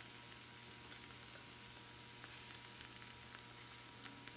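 Crepe frying in a lightly oiled pan: a faint, steady sizzle with small scattered crackles.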